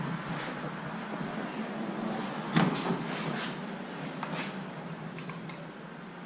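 Metal tools and bike parts clinking and knocking: a short clatter of knocks about two and a half seconds in, then a few light, ringing metallic clinks.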